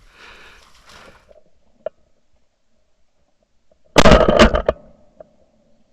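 A sudden, very loud burst of noise about four seconds in, lasting under a second, after a faint low voice and a single click.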